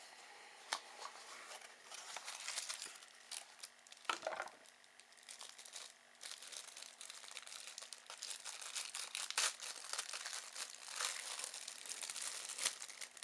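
Packaging being handled and unwrapped: irregular crinkling, tearing and small clicks, growing busier in the second half, as a replacement laptop CPU fan is unpacked.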